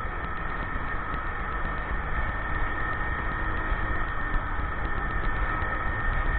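Motorcycle engine running steadily under a low rumble, getting slightly louder toward the end.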